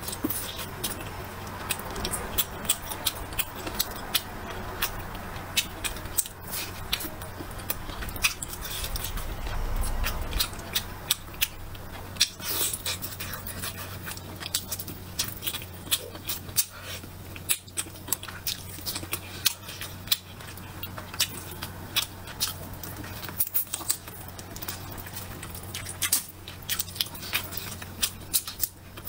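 A person chewing and biting food close to the microphone: a continual run of short, irregular mouth clicks and smacks.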